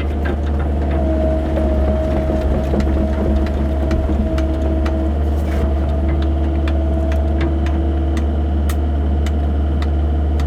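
Excavator's diesel engine running steadily, with a steady whine over its low hum and scattered light clicks and knocks as the machine works.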